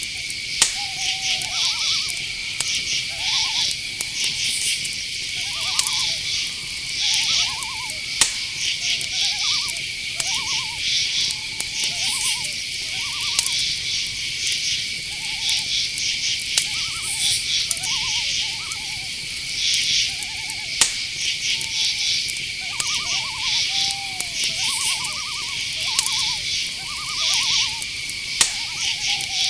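Night insect chorus: a steady high cricket trill with fast pulsed chirping above it, and short, quickly pulsed calls lower down about once a second. Sharp clicks sound now and then.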